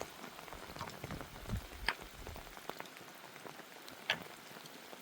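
Rain falling steadily as an even hiss, with scattered sharp drips and ticks; the loudest come about two seconds in and about four seconds in.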